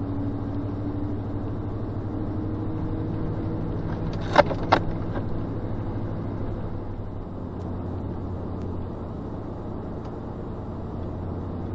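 A car's engine and road noise heard from inside the cabin while driving, a steady drone, with two sharp knocks about four and a half seconds in.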